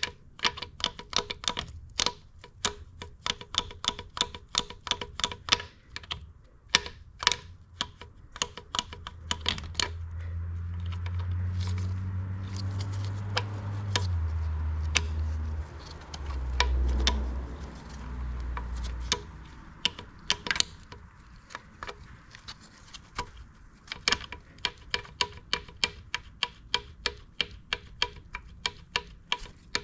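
Rapid, irregular metallic clicking and tapping as a stuck valve lifter in a DeSoto Hemi block is worked at and twisted with a magnet to free it from carbon. From about ten to nineteen seconds in, a low hum joins in and drops in pitch in steps.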